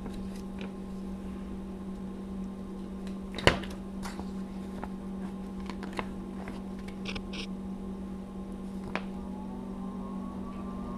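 Tecomec Jolly Evo bench chain grinder's electric motor running steadily with a low hum. A sharp click comes about three and a half seconds in, with fainter ticks and a brief scrape later.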